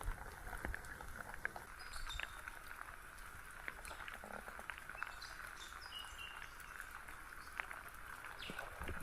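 Faint steady hiss of rain with scattered drip ticks, and a few short high-pitched bird calls in the middle.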